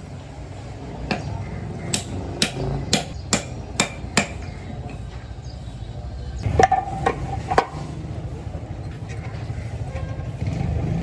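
Hammer blows on metal in a metalworking shop: a run of about seven strikes at roughly two a second, then a pause, then a few more ringing strikes. A steady low rumble runs underneath.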